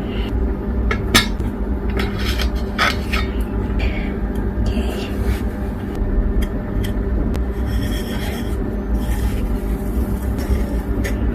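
Breadcrumb-coated carrot pieces rubbing and scraping against a plate as they are rolled in crumbs, with a few short clicks of tongs or utensils, over a steady low hum.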